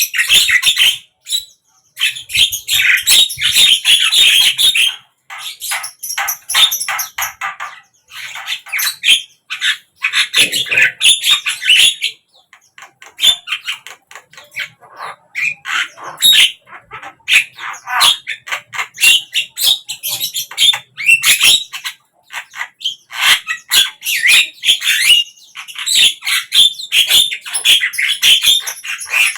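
Javan myna chattering: rapid runs of harsh squawks and clicks, in bursts broken by short pauses.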